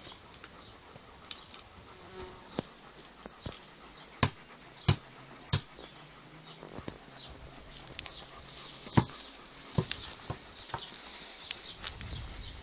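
A steady high buzzing like insects, swelling a little in the second half, with several sharp taps or knocks, three loud ones about four to five and a half seconds in and another near nine seconds.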